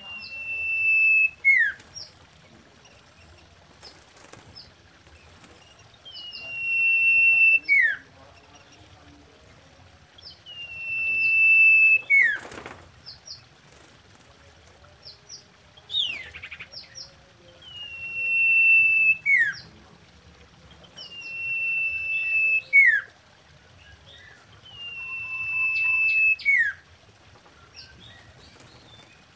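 Common iora calling: a long drawn whistle, held level and then dropping sharply at its end, repeated six times about every four seconds. A short buzzy trill comes about halfway through.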